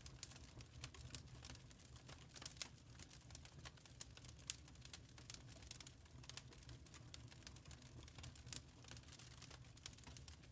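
Faint wood fire crackling in a fireplace: irregular small pops and snaps over a low steady rumble.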